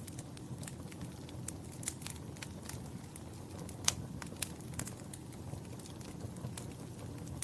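Wood fire crackling in a fireplace: irregular sharp pops and snaps over a steady low rumble of the flames, with one louder pop a little before the middle.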